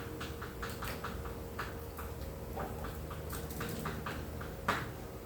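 A quick run of short taps and scratches, several a second, like writing on a classroom board, over a faint steady hum.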